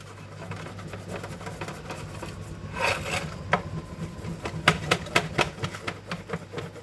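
Scattered light clicks and taps of metal baking tins being handled while butter is rubbed around them by finger, over a steady low hum.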